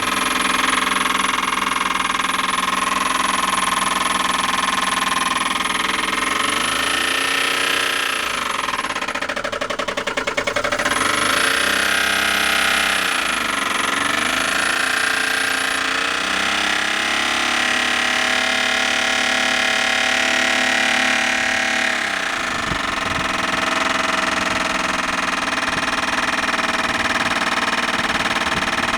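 Rebuilt Honda VTEC four-cylinder engine running steadily, its pitch rising and falling twice as the revs go up and back down.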